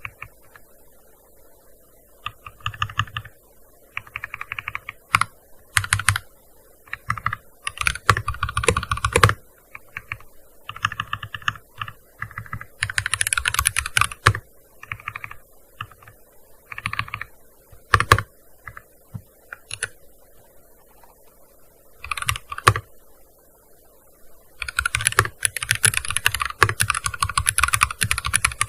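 Typing on a gaming keyboard: bursts of rapid keystrokes separated by short pauses, with a few single louder key strikes, and a long fast run near the end.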